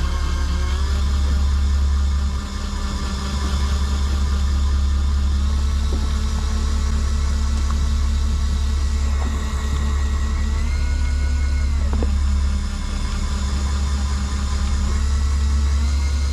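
Boat engine running steadily with a deep, constant hum. Higher whining tones above it step up and down in pitch several times, with one dropping sharply about twelve seconds in.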